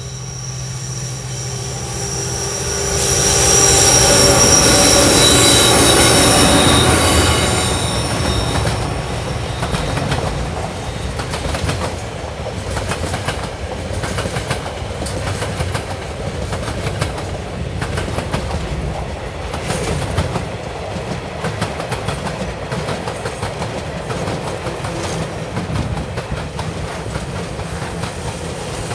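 Diesel freight locomotives TR16 and TR12 pass close by with their engines running, and high squealing tones from the brakes peak a few seconds in, the loudest part. After them, container wagons and then empty log wagons roll past under hard braking, with a steady rumble and quick, uneven clicking and knocking of wheels over the rails.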